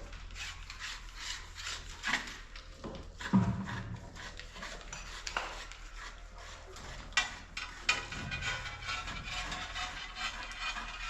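Irregular scraping and knocking of hard objects being handled, with a louder thud about three and a half seconds in, over a steady low hum.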